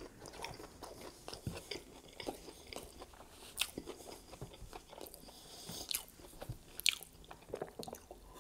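Close-miked chewing of a chicken McNugget dipped in barbecue sauce: soft, wet mouth sounds with scattered sharp clicks and smacks, a few louder ones about three and a half, six and seven seconds in.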